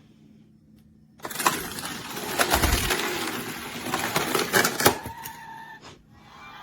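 Fisher-Price Little People Launch & Loop Raceway toy track in play: about a second in, a loud noisy clatter full of sharp clicks starts and runs for about four seconds, then a short steady tone sounds near the end.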